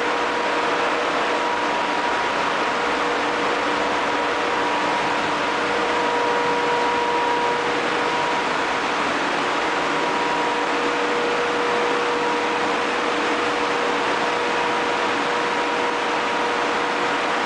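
Ship's engine room machinery running: a steady, loud, even noise with a constant hum of a few tones held throughout.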